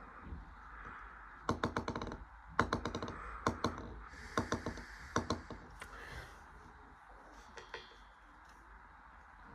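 Bridgestone Altus Newing washing machine in its wash stage, a steady hum broken by about five short bursts of rapid clicking rattle in the first half, then quieter.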